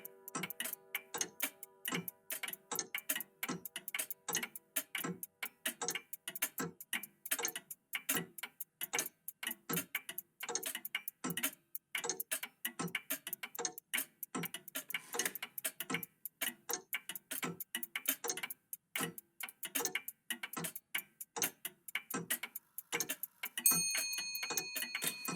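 Old clocks ticking together: overlapping ticks, several a second, in a slightly uneven pattern. A ringing chime tone fades away over the first few seconds, and another bright chime starts just before the end.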